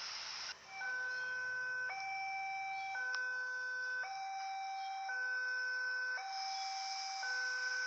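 Electronic two-tone warning signal alternating high and low about once a second at a steady pitch and level, like a railway level-crossing alarm warning of an approaching train.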